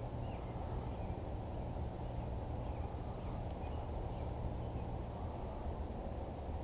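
Steady low rumbling noise with faint short bird chirps every second or so.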